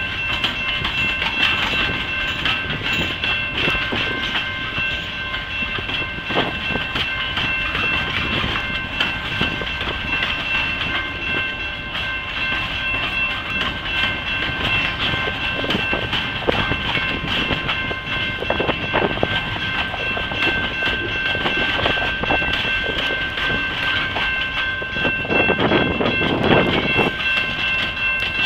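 Freight train cars rolling past, a steady rumble of wheels on rail with clickety-clack over the rail joints and a thin, steady high-pitched whine. It swells louder briefly near the end.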